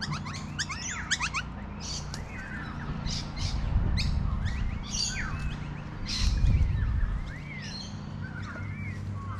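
Birds chirping and calling over and over in quick, sliding notes, over a steady low hum. Two low rumbles come through, one about three and a half seconds in and a louder one about six and a half seconds in.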